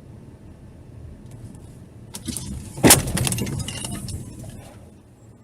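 Car crash: over the steady hum of road and engine noise, a loud crunching impact about three seconds in, followed by a second or so of rattling and breaking debris that dies away.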